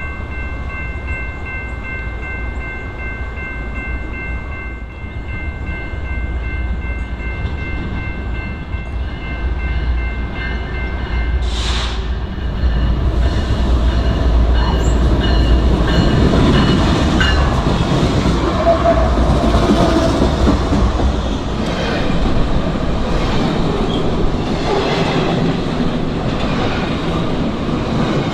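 A train passing close by on the main line: a steady low diesel rumble under a held chord of high tones, then, from about halfway through, louder wheel noise with rhythmic clickety-clack over the rail joints.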